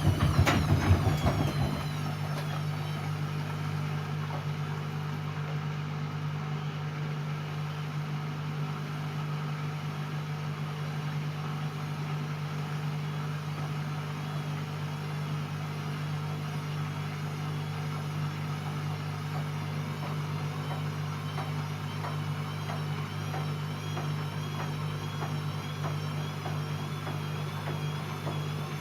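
Siemens Siwamat C10 washing machine running: a steady motor hum with a faint wavering whine. It is louder, with a shifting pitch, in the first second or so, then holds steady.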